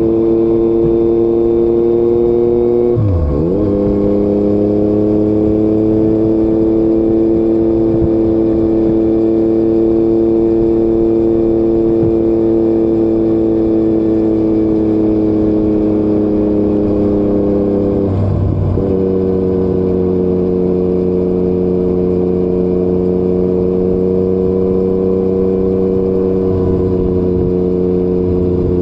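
Yamaha MT-09 inline three-cylinder engine running through an Akrapovic exhaust under way, holding a steady note that rises slowly. The note breaks briefly twice, about three seconds in and again about eighteen seconds in, as with a gear change.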